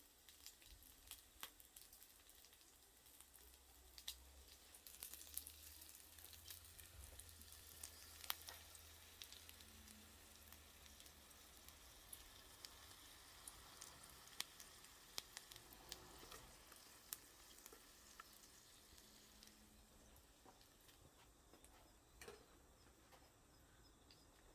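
Sausages faintly sizzling as they cook over a wood fire in a small wood stove, with a steady hiss and many scattered small pops and crackles.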